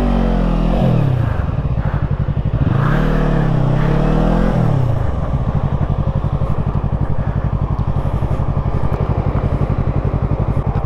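A 2017 Yamaha YZF-R3's parallel-twin engine revs up and drops back twice, as in pulling away through the gears, then settles into a steady low-rpm run for the rest of the time.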